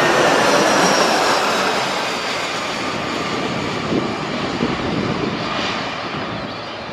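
Jet airliner's engines running loud at first, then fading steadily as the aircraft moves away, with a faint whine that falls slightly in pitch.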